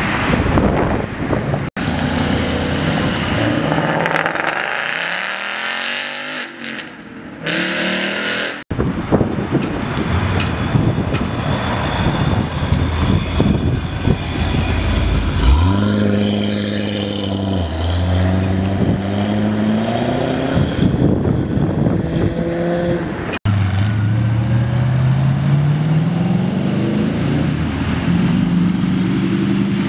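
Performance cars revving and accelerating away, one after another. There is a pass-by with falling pitch early on and a loud thump about fifteen seconds in. Near the end an engine climbs steadily in pitch as it pulls hard through the revs.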